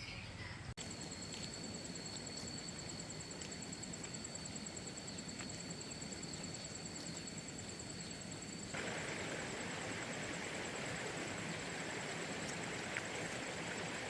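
Steady outdoor ambient noise with a high, rapidly pulsing trill. About a second in and again near nine seconds it changes abruptly, the second time to a louder, broader hiss.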